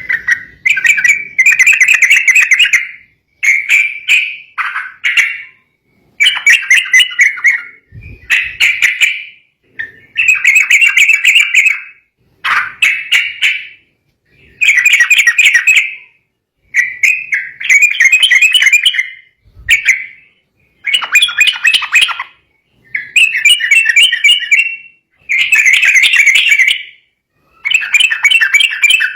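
Yellow-vented bulbul (trucukan) singing in an agitated state: loud, bubbly chirping phrases, each about a second long, repeated about every two seconds with short pauses between.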